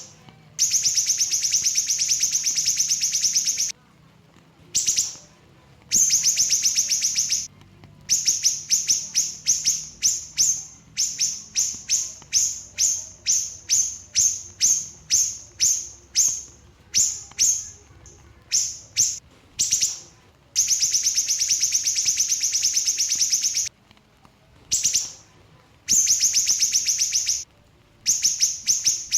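Small siri-siri bird singing rapid, buzzy high trills. Long rattling runs of about three seconds alternate with bursts of short, quick phrases about twice a second, with brief pauses between.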